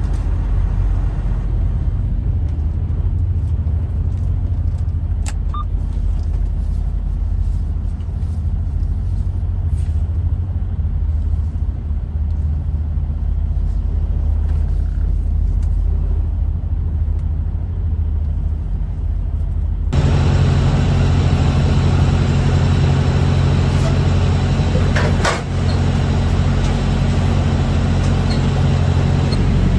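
Semi truck running, a steady low engine and road rumble. About two-thirds of the way through it changes suddenly to a louder, brighter running sound, and there is a single sharp click a few seconds later.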